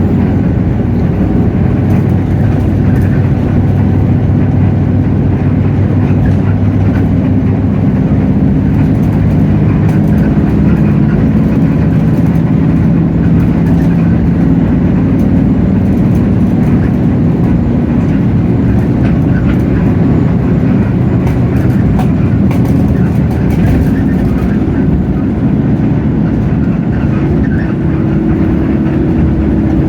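Hino J08E-VN 7.7-litre diesel engine of a city bus, heard from inside the cabin, running steadily under way; its note rises and falls slowly a few times as the bus changes speed.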